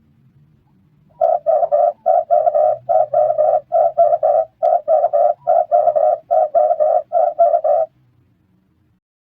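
Red turtle dove cooing: quick clusters of about three short, low notes, repeated evenly about ten times, then stopping about a second and a half before the end.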